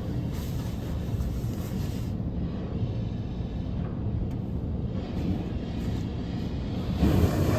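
Steady low rumble of a car running, heard from inside the cabin, a little louder near the end.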